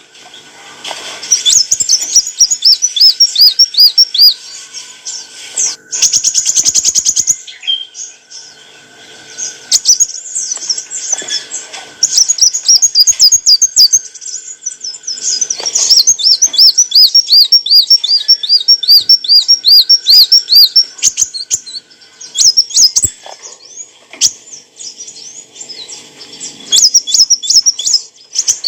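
A kolibri wulung sunbird singing: long bouts of rapid, high-pitched chirps and trills, each bout a fast string of repeated notes, broken by a few short pauses.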